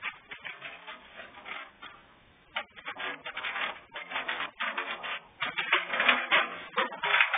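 Heavy rain clattering down in uneven bursts with short breaks, growing louder in the second half.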